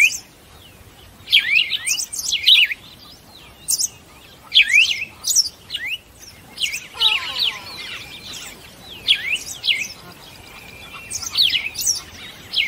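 Birds chirping: short, sharp notes that sweep down in pitch, in quick runs of two or three, with a few faint held whistles partway through.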